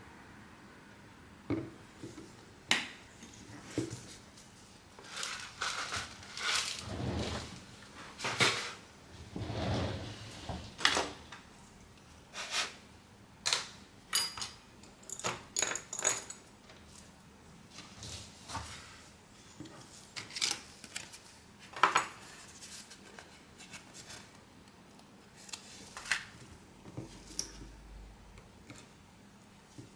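Irregular clicks, taps and light metallic clinks of small repair tools and phone parts being handled on a workbench, with a few brief rubbing sounds; busiest in the first half.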